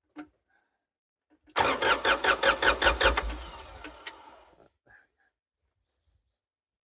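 The Terex TA1EH site dumper's diesel engine being cranked by its starter motor, turning over in even pulses for about two seconds without catching, then running down and dying away. A short knock comes just before the cranking.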